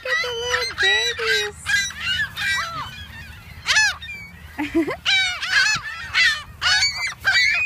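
A flock of birds calling: many short, harsh calls overlapping, several a second.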